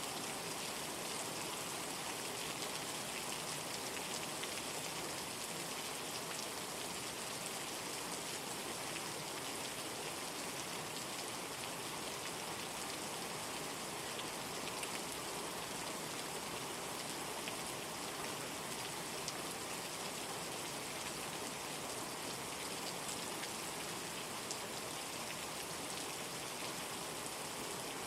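Steady rainstorm: a dense, even hiss of heavy rain with many individual drops ticking through it.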